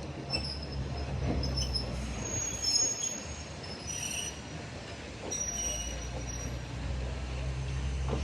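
Train running on rails with a steady low rumble, and thin, high-pitched wheel squeals twice, about two seconds in and again about five seconds in.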